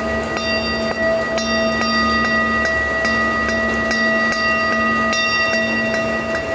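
Steady rain with ringing bell-like tones. Several tones hold steadily, and higher chimes are struck again every half second to a second or so.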